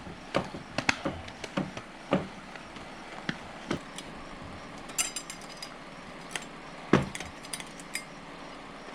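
Scattered knocks and metallic clinks of automatic-transmission parts being handled and worked together on a bench while a Ford AODE direct clutch drum is assembled. There is a short ringing clink about five seconds in and the loudest knock about two seconds later.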